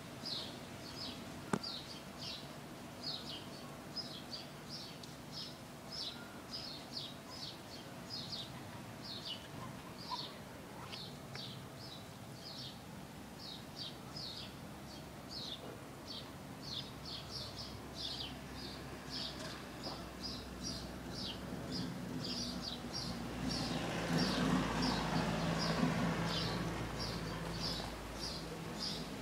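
Small birds chirping without pause, several short high chirps a second. In the last third a low, rushing noise swells up and becomes the loudest sound, then eases off near the end.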